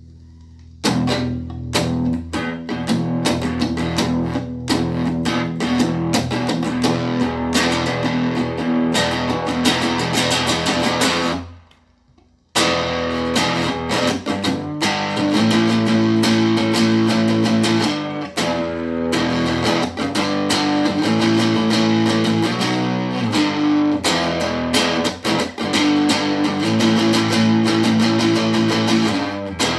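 Guitar plugged in through effects, strummed in a driving rhythm: it comes in about a second in, stops dead for about a second near the middle, then picks back up with held, ringing chords.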